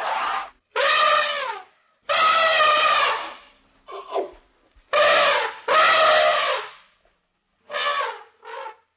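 An animal calling over and over: about seven loud, pitched calls, each under a second long, with short gaps between them.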